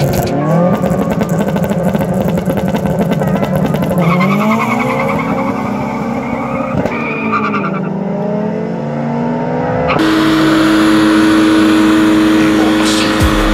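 Two tuned car engines revving at a drag-race start line, their pitch rising and falling in blips. About ten seconds in it changes sharply to a car doing a burnout: the engine is held at steady high revs over the hiss of spinning tyres.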